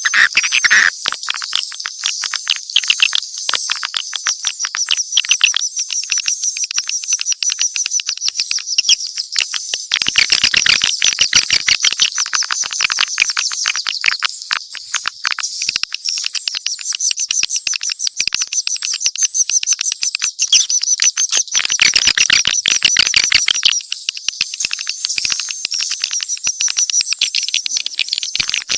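Swiftlets chirping: a dense, unbroken mix of rapid high-pitched twittering calls and clicks, a mixed swiftlet call-sound track.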